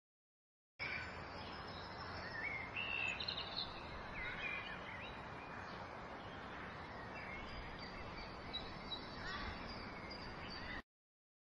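Outdoor ambience: a steady background hiss with birds chirping, a cluster of short chirps about two to five seconds in. It starts about a second in and cuts off suddenly shortly before the end.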